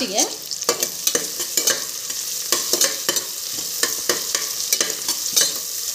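Sliced onions, fried golden, and green chillies sizzling in hot oil in a pressure cooker while a steel spatula stirs them, scraping and clicking against the pot again and again.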